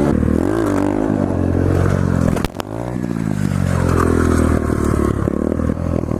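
Motorcycle engine revving and falling back under throttle. There is a sharp click about two and a half seconds in as the revs drop away, then the engine runs on and rises again.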